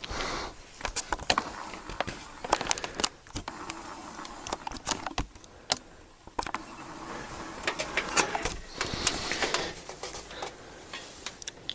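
Irregular clicks, knocks and light rattles of a metal box fan being handled and set down.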